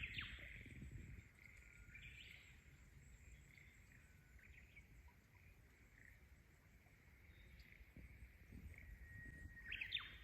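Quiet outdoor ambience with faint bird chirps, a short cluster near the start and another near the end, over a faint steady high hum and low rumble.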